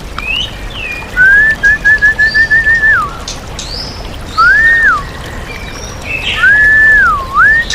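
Caged songbird whistling clear, pure notes: a rising note runs into a quick string of short repeated notes, then looping up-and-down whistles follow, with thinner high chirps between them. A steady hiss of flowing water lies underneath.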